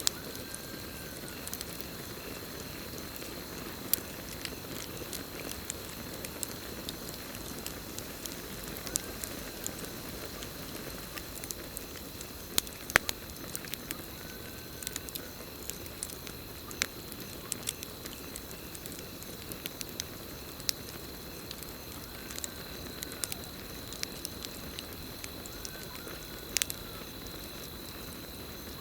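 Campfire burning: a steady hiss with scattered sharp crackles and occasional louder pops. A steady high cricket trill runs behind it.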